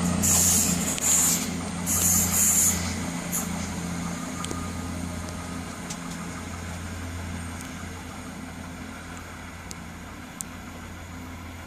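Diesel train's engines running with a steady low hum that slowly fades away, with a few short hisses of air in the first three seconds.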